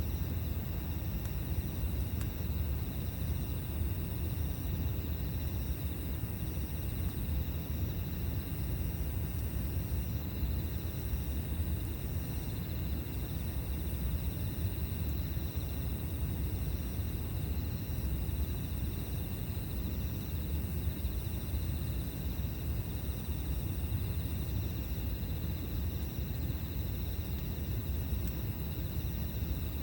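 Insects singing: steady high-pitched trills, with one higher song repeating in phrases of about two seconds that stops a few seconds before the end, over a low steady rumble.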